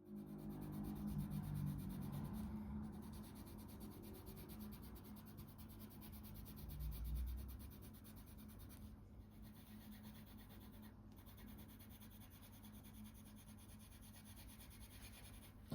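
Colour pencil rubbing and scratching faintly on paper as colour is laid down, over a low steady hum.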